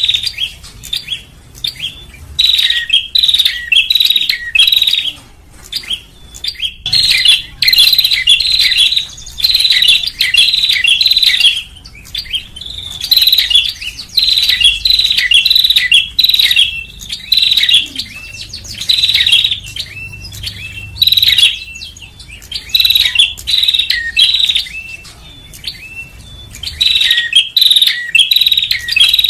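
Prinia (prenjak) calling in rapid, high chirping phrases of one to two seconds, repeated with short pauses. It is a recorded lure call played to draw small birds in.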